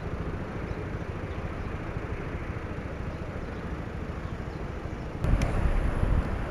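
Steady road and wind noise from riding a motorcycle in traffic. About five seconds in, a louder, low rumble of wind on the microphone sets in.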